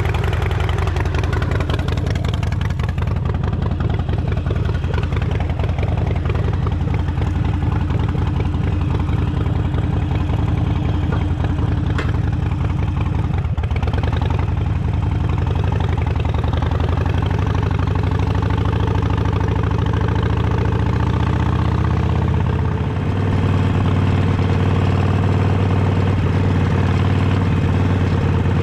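Harley-Davidson Sportster V-twin motorcycle engine running steadily at a low, even speed, its note changing late on.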